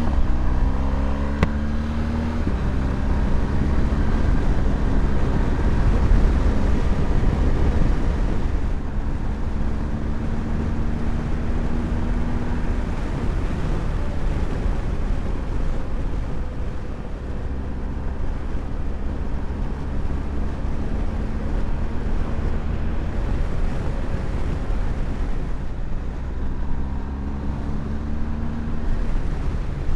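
Motorcycle engine under way: the note rises as it accelerates over the first couple of seconds, then it cruises at a steady pitch, with a low wind rumble on the microphone.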